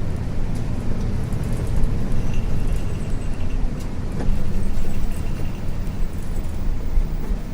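Isuzu U-LV224N city bus with its 6QB2 diesel engine running on the road, heard from inside the bus: a steady low drone with light clicks and rattles scattered through it.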